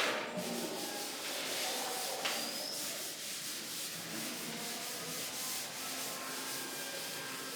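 Continuous scratching and rubbing of handwriting, a pen or marker moving over the writing surface, with one sharp click about two seconds in.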